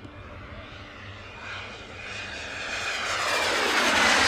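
Radio-controlled model airplane engine flying past, growing steadily louder as the plane approaches and peaking near the end as it passes close by.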